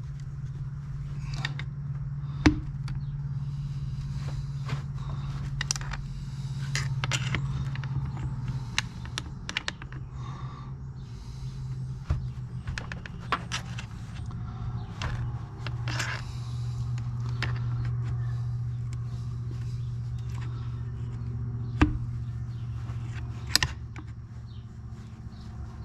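Scattered small clicks, taps and scrapes of hand tools and fingers on the chainsaw's plastic and metal parts as a rubber grommet is worked into its seat, with a few sharper clicks, about three seconds in and twice near the end. A steady low hum sounds underneath.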